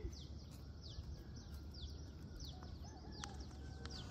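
Birds calling: short, high falling notes repeated again and again, with a lower wavering call about three seconds in, over a steady low outdoor rumble.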